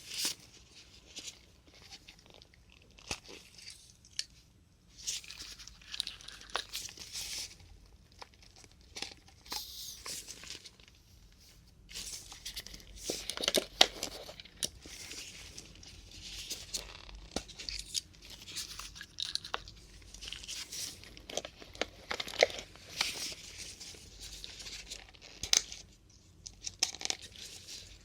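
Plastic caps being pulled off disposable syringes one after another, close up, each a sharp pop or snap mixed with crinkly plastic handling, at an irregular pace.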